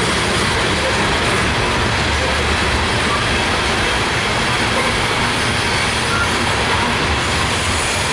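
Loaded coal train's cars rolling past on the rails: a steady, loud wheel-on-rail rumble with an uneven low throb underneath and a few faint brief squeals.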